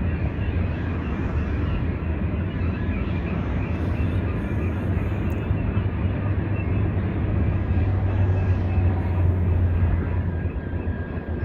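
A freight train of tank cars rolling past on the rails: a steady low rumble with the rattle and clatter of wheels on track.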